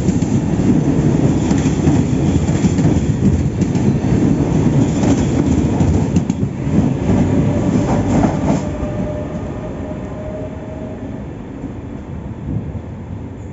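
Italo high-speed train rolling past close by, with a steady rumble and clatter of wheels over the track and a few sharp clicks; the noise falls away after about nine seconds.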